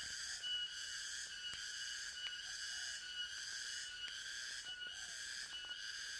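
Forest insect chorus: a steady, high-pitched shrill that swells and dips about once a second. A few faint, short, low calls from another animal sound beneath it.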